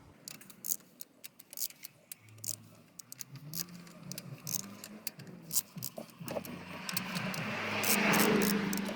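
Scattered light metallic clicks and clinks of hand tools and head bolts being handled on an engine. A rising noise builds up over the last two or three seconds.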